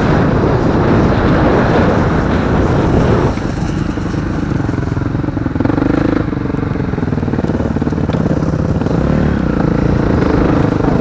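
Motocross motorcycles racing on the track at full throttle, engines loud. From about three seconds in, one engine note stands out, rising and falling as the rider works the throttle.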